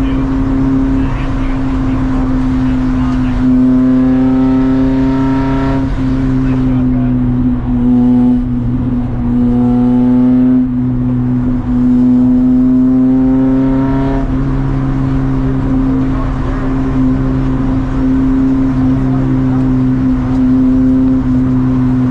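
Race car engine running hard under load. Its note climbs three times and drops after each climb, as the car accelerates and lifts or shifts between runs.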